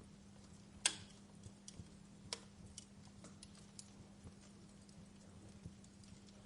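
Wood fire crackling: sparse, irregular pops and snaps, the sharpest about a second in, over a faint steady low hum.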